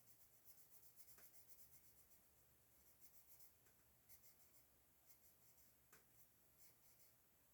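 Faint scratching of a Prismacolor colored pencil being stroked across paper: a quick run of short strokes in the first couple of seconds, then sparser ones.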